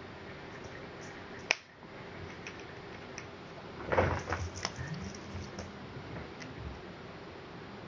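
Cats at play with a cat teaser: a single sharp click about a second and a half in, then a quick flurry of knocks and scuffles around four seconds in, with a faint low hum after.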